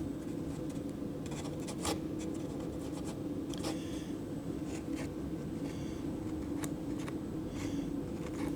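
Light, scattered scratching and rubbing of hand work on a balsa model airframe, spreading and working wood glue into a joint, over a steady low hum.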